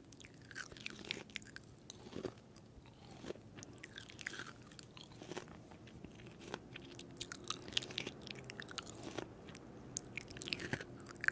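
Crunchy food being bitten and chewed: scattered crisp crunches and clicks, fairly quiet, over a faint steady hum.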